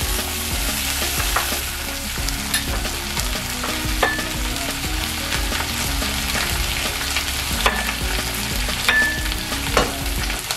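Rolled pork belly and garlic sizzling in the hot fat of a cast iron Dutch oven, a steady hiss with a few sharp clicks from knife and plates on the cutting board.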